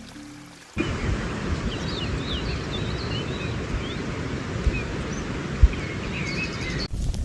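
Outdoor rural ambience: wind rumbling on the microphone, with small birds chirping in short high calls. It comes in suddenly about a second in, as a fading strain of music ends, and cuts off just before the end.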